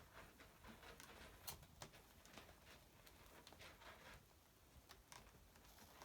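Faint, irregular small clicks and crunches, a dozen or so, spaced unevenly: kittens chewing on a mouse.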